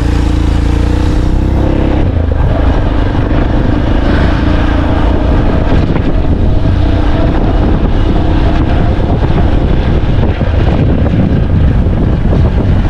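A car driving on a rough unpaved track: engine running under a heavy, steady rumble of tyre and wind noise.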